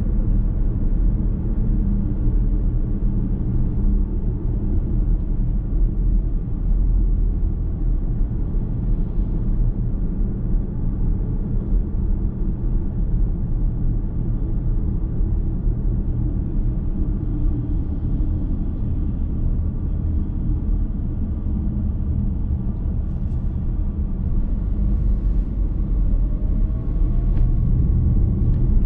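Road noise of a car being driven, heard from inside the cabin: a steady low rumble of tyres and engine.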